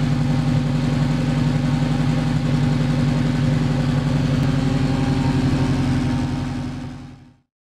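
1970 Saab 96's V4 engine running at a steady idle through its new Jetex exhaust, fading out near the end.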